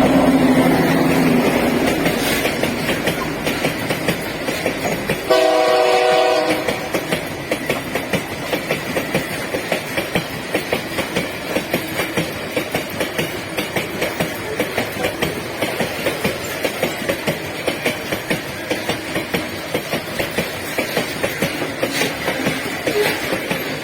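Loaded iron-ore train of gondola wagons rolling past, its wheels clicking over rail joints in a steady rhythm. A locomotive air horn fades away at the start and gives another short blast about five seconds in.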